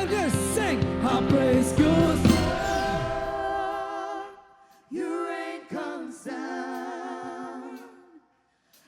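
Worship song: the band and lead vocal play with a steady bass for the first few seconds, then drop away. From about five seconds in, voices sing held chords unaccompanied in harmony, cutting off just before the end.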